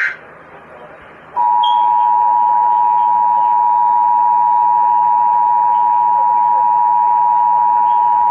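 Emergency Alert System two-tone attention signal: two steady tones sounding together, starting about a second and a half in after a short stretch of faint hiss. It marks the start of a severe thunderstorm warning broadcast.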